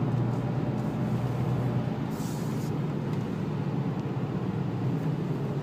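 Inside the cabin of a Renault Laguna wagon with a 2-litre turbo diesel cruising steadily: a low, even engine drone with road and tyre noise on a wet, slick track. A brief hiss comes about two seconds in.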